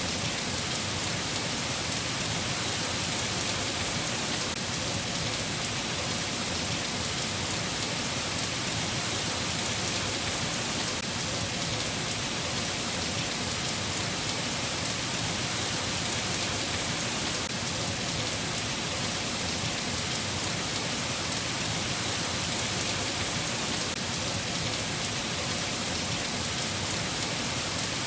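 Steady, even rain falling, with no breaks or thunderclaps.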